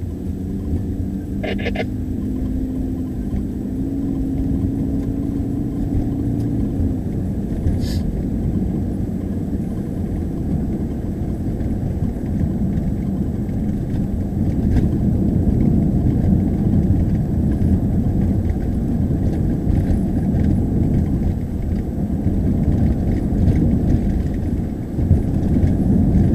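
A car driving, heard from inside the cabin: steady engine and road rumble, with a couple of brief clicks early on and near the middle.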